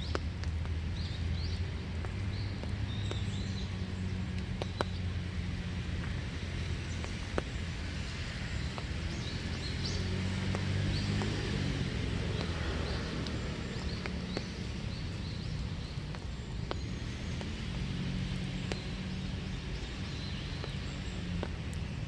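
Light winter rain falling in a small wood, with scattered drops ticking, and birds giving short high chirps now and then, mostly in the first half. Under it runs a steady low rumble.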